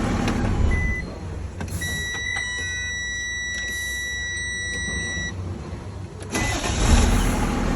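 Freightliner M2 diesel engine running just after a no-crank fault in the starter signal wire was repaired. A steady high electronic warning tone sounds over it for about three and a half seconds in the middle, and the engine gets louder again near the end.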